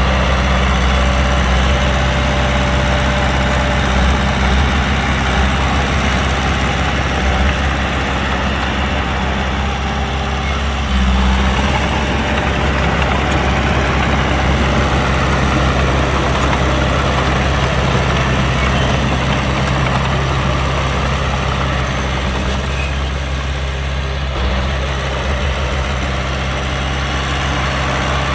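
Heavy diesel engine of earthmoving machinery running steadily near idle, with brief small swells in level.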